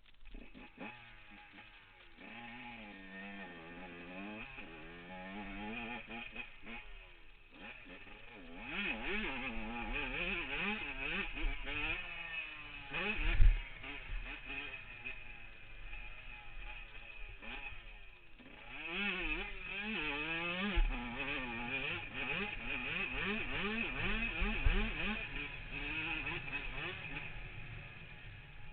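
Yamaha YZ125 two-stroke single-cylinder engine being ridden hard, its pitch climbing and dropping back again and again as the throttle opens and closes. A few thumps break through, the loudest about halfway through.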